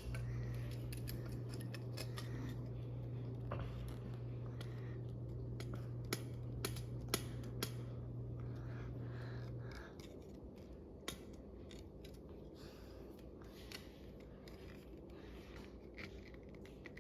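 Small plastic model airplane parts clicking and tapping as they are handled and fitted together. A steady low hum stops about ten seconds in.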